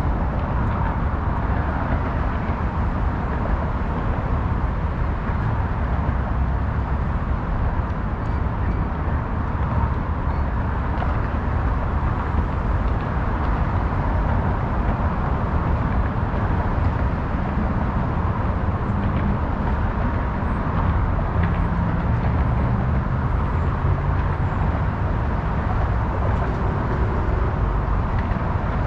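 Steady, continuous road-traffic noise: an even rumble of passing cars with no breaks, with faint engine hums standing out now and then in the second half.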